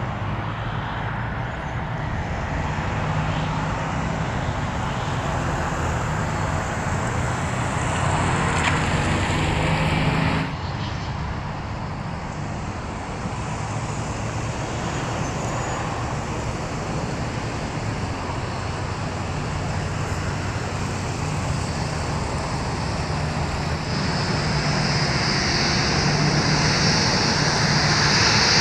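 Boeing 787 Dreamliner's jet engines running at taxi power, a steady rush with low hums. The sound cuts down suddenly about ten seconds in, then a high engine whine grows louder near the end.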